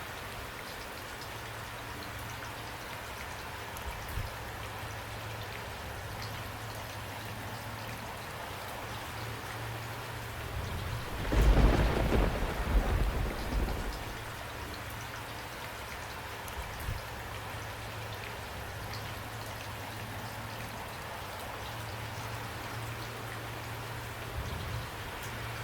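Steady rainfall, with a rumble of thunder that swells about halfway through, peaks and rolls away over two to three seconds.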